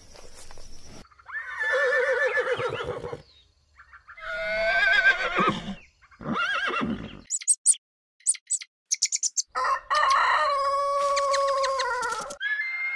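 A series of separate animal calls with short gaps, then a quick run of short clicks, then a rooster crowing: one long call held level and falling away at its end, stopping about half a second before the end.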